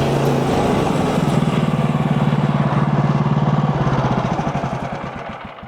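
Portable sawmill's Kohler gas engine drops to a pulsing idle about half a second in. It is then shut off and runs down to a stop over the last second and a half.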